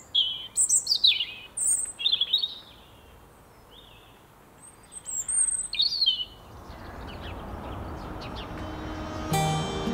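Small birds chirping, with quick high calls in two bursts, the first right at the start and the second a few seconds later. A soft hiss then builds, and music comes in near the end.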